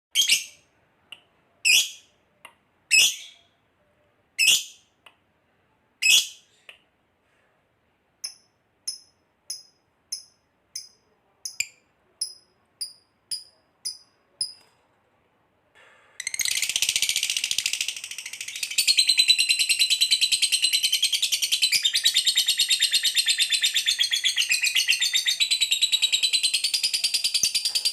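Recorded calls of caged pet birds: about five loud, harsh lovebird shrieks, then a run of about ten short, evenly spaced sparrow chirps. After a brief gap, about sixteen seconds in, a canary starts a continuous, fast-trilling song.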